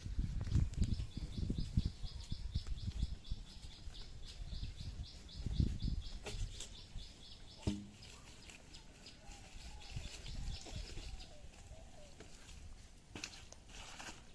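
A bird calling with a rapid run of high chirps, about five a second, that stops about eleven seconds in. Under it there is low rumbling and thudding, with one sharp knock about eight seconds in.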